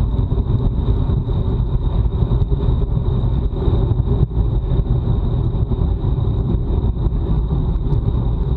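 Wind rushing over a bike-mounted action camera's microphone while riding fast, a loud steady low rumble with gusty buffeting and a faint steady high whine above it.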